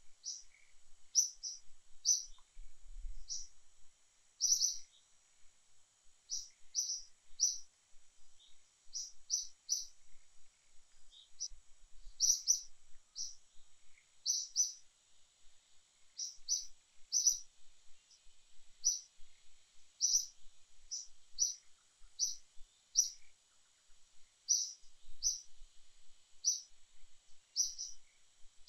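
A small bird chirping over and over: short, high chirps, mostly in quick pairs or threes about a second apart, over a faint steady high-pitched hum.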